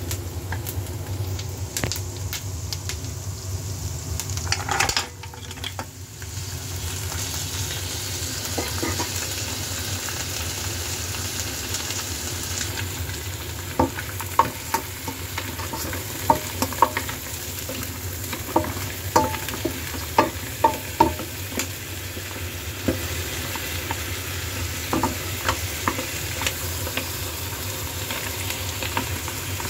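Chopped onion sizzling in oil in a stainless steel pan, stirred with a wooden spoon. About five seconds in, green mussels in their shells go in with a brief loud rush, and the sizzle turns hissier. Midway, a run of sharp clicks comes as the shells knock against the pan while being stirred.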